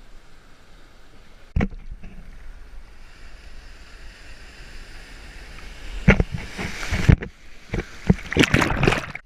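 Rushing water and wind noise, with a single sharp knock about a second and a half in and a cluster of sharp knocks and splashes near the end.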